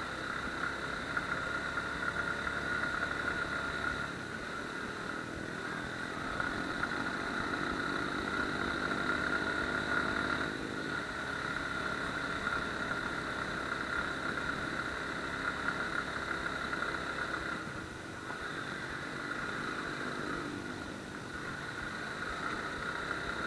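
Suzuki Gixxer motorcycle's single-cylinder engine running under way on a steep off-road hill track, its note rising and falling as the throttle is worked, with a steady high-pitched tone over it.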